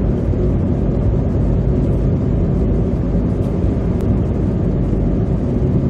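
Car's tyres running through slush at road speed, heard from inside the cabin: a steady low rumble and wash of road noise.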